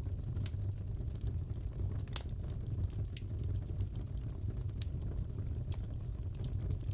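Crackling fireplace: a steady low rumble of burning wood with scattered sharp pops and crackles, one louder pop about two seconds in.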